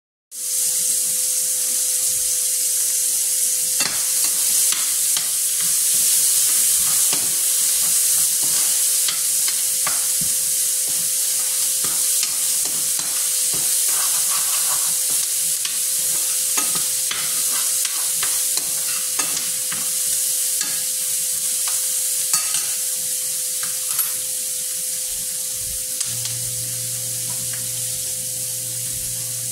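Onions and tomatoes sizzling in oil in a stainless steel skillet, a steady hiss. A utensil clicks and scrapes against the pan from time to time as they are stirred. A faint steady tone runs underneath, joined by a low hum near the end.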